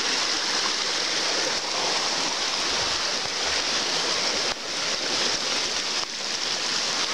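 Rain falling steadily: a continuous hiss, briefly dipping about four and a half and six seconds in.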